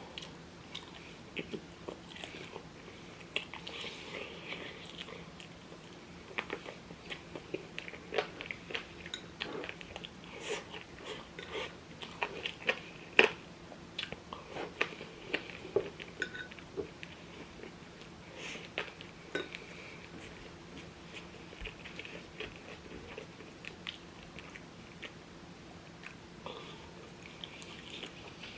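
Close-up chewing and biting on a scallion-oil chicken wing drumette, with many small wet clicks and crunches scattered throughout.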